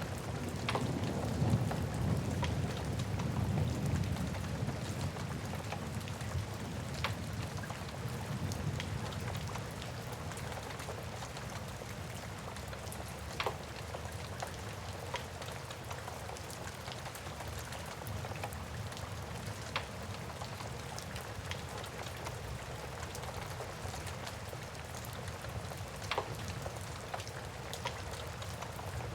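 Steady rain with a wood fire crackling, giving a sharp pop every few seconds. A low rumble fades away over the first five seconds or so.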